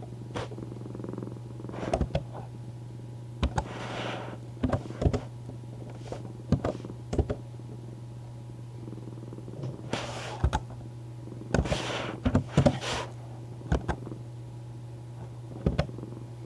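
Cat purring on a lap, close to the microphone: a steady low purr throughout, with scattered small clicks and soft rustling bursts from movement.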